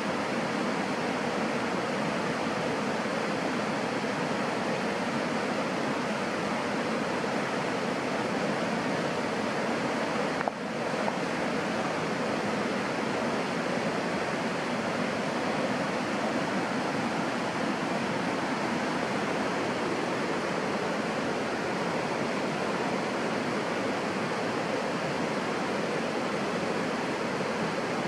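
Steady rushing noise of water, unbroken except for a brief dip about ten seconds in.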